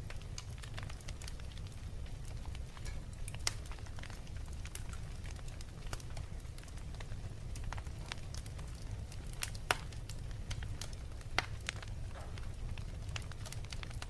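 Fireplace fire crackling: irregular sharp pops and snaps, a few louder ones standing out, over a steady low rumble.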